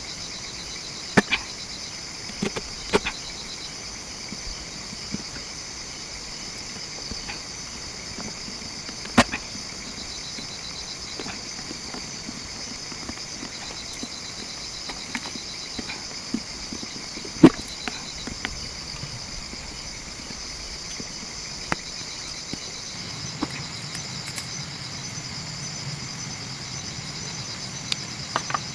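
Steady high chirring of insects, with scattered sharp knocks or clicks, the loudest a little past halfway.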